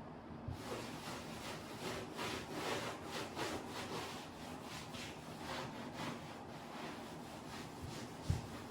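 A quick series of rubbing or scraping strokes, two to three a second, with a single thump near the end.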